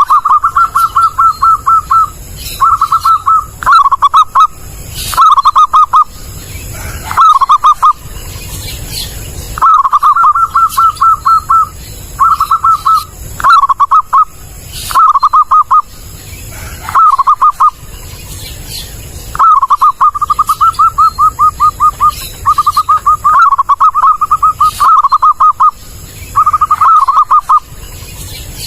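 Zebra dove (perkutut) cooing: phrases of quick, evenly spaced staccato coo notes, each phrase one to two seconds long, repeated over and over with short pauses.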